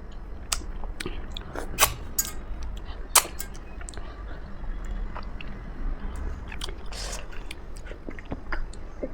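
A person chewing a mouthful of food close to the microphone: wet mouth clicks and small crackles, with two sharper crunches about two and three seconds in.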